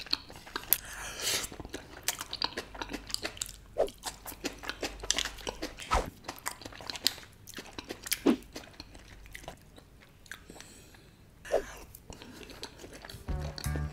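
Close-miked chewing of a mouthful of pasta in white sauce, with many short wet mouth clicks and smacks.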